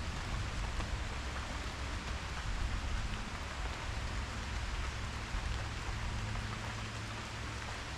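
Steady rain falling, an even hiss with scattered drop ticks, over a low steady rumble.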